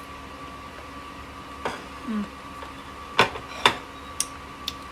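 Crisp crunches of unripe green mango being bitten and chewed, five sharp cracks with the second and third the loudest, over a steady background hum.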